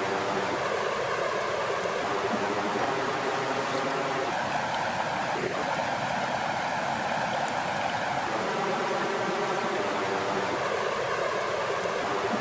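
Steady flowing water: an even, continuous rush and wash of water.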